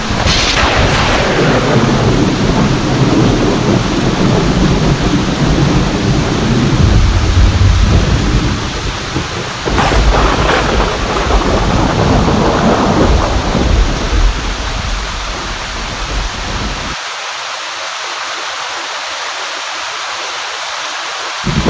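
Steady heavy rain with thunder: a sharp thunderclap right at the start rolls into several seconds of deep rumbling, and a second clap comes about ten seconds in. Near the end the rumble dies away and only the rain's hiss remains.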